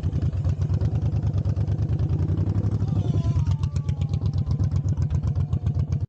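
Motorcycle engine idling with a steady, rapid low pulse. It cuts off abruptly at the end.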